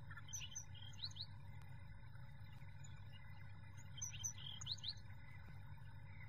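A bird calling twice, about four seconds apart. Each call is a quick run of high chirps ending in two fast rising notes, over the low steady noise of a breeze.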